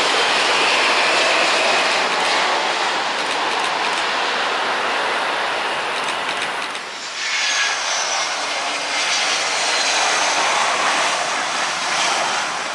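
Jet airliner passing close on landing: loud, steady engine noise with a high turbine whine falling in pitch. The noise dips briefly about seven seconds in, then swells again with another high, falling whine.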